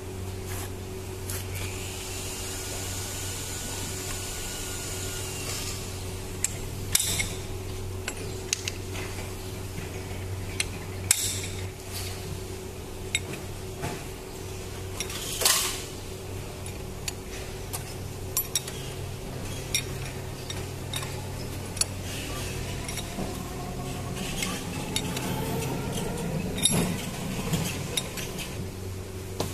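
Metal tools and parts clinking, knocking and scraping as the hydraulic unit of a Crown hand pallet truck is worked on, with a louder scrape about halfway through. A steady low hum runs underneath.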